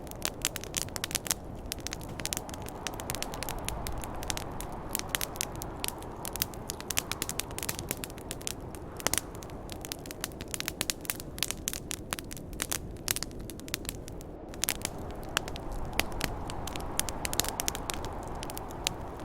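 Campfire burning and crackling, dense irregular pops and snaps over a steady low rush. Wind of a snowstorm may be mixed into the background hush.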